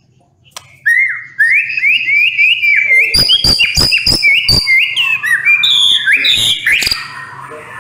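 White-rumped shama singing loudly in a fast volley: a quickly repeated whistled phrase begins about a second in, with a run of sharp clicks in the middle, and the song eases off near the end.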